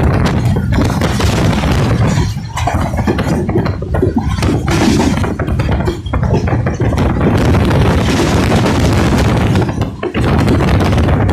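Moving passenger train heard from an open carriage door: a loud, steady rumble of the wheels on the track with wind buffeting the microphone, dipping briefly a few times.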